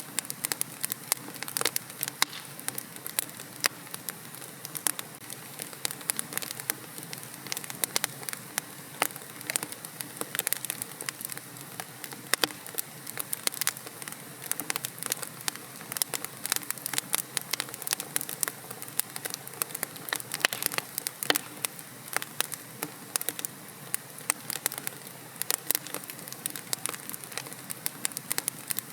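Wood fire crackling in a fireplace: a steady soft hiss with many irregular sharp pops and snaps throughout.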